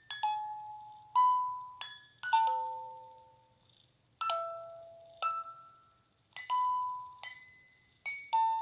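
A slow, gentle lullaby played on bell-like chime tones: about ten single notes, each struck and ringing away, with a short pause partway through. A faint steady low hum lies underneath.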